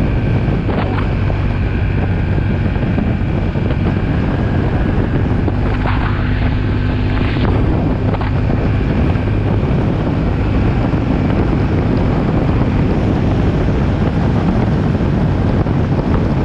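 A vehicle engine running steadily under heavy wind rumble on the microphone.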